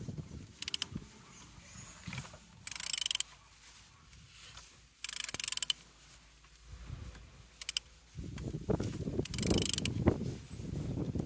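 A ratchet wrench clicking in five short bursts as a used engine's crankshaft is turned over by hand. Low rumbling and knocks from the engine being turned fill the last few seconds; it turns freely.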